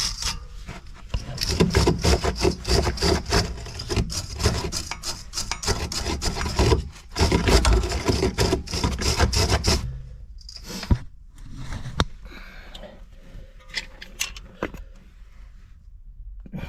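Rapid metallic scraping and rubbing of hand tools working on a car's anti-roll bar link and its nuts for about ten seconds, then quieter tool handling with a couple of sharp clicks.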